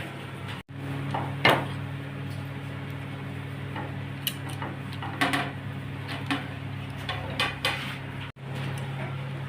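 Scattered clinks and knocks of kitchen dishes or utensils being handled, over a steady low hum.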